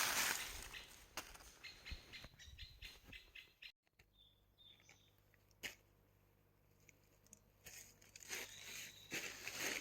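Crunching and rustling of leaf litter and brush underfoot and by hand, with a run of short clicks and snaps early on; about four seconds in it drops abruptly to near quiet with a single sharp snap, and the rustling picks up again near the end.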